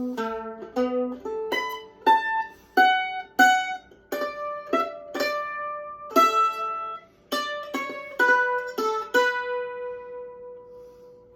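Instrumental music on a plucked string instrument: a melody of single picked notes, each ringing and decaying, ending on a last note that rings out and fades away.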